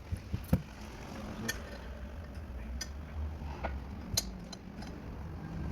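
A handful of light, sharp metal-on-metal clicks and taps spread irregularly over a few seconds as differential bearing parts are handled and set in place, over a steady low hum.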